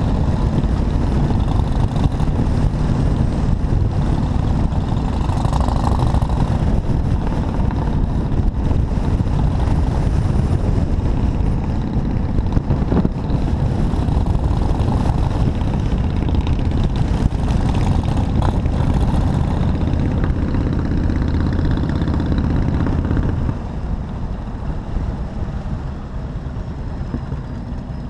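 Motorcycle on the move: steady engine and road noise, dropping in level a few seconds before the end.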